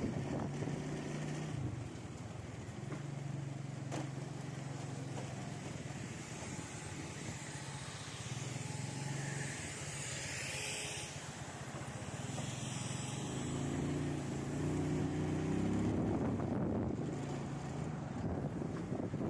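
Urban road traffic: motor vehicle engines running, with a swell of tyre and engine noise in the middle and an engine revving up in pitch about fourteen seconds in.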